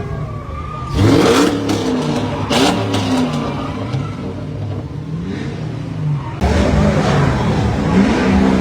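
Car engine revving repeatedly, its pitch rising and falling, louder from about a second in and again after about six seconds, with a few sharp crackles.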